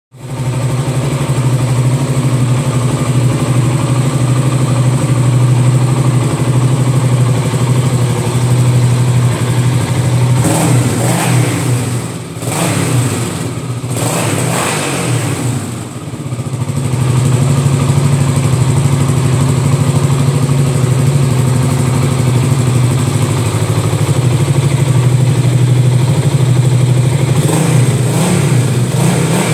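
Honda CB400SS's 397cc air-cooled single-cylinder four-stroke engine idling steadily. It is revved up and down a few times around the middle and then settles back to idle, with a short blip of the throttle near the end.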